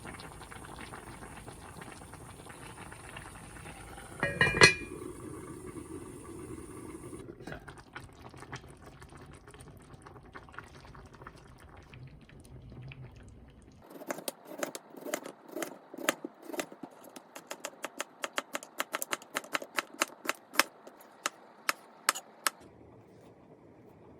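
Kitchen work sounds: one loud ringing metal clank, like a pot or lid, about four seconds in. Later comes a run of quick sharp knocks and clinks, several a second, lasting about eight seconds.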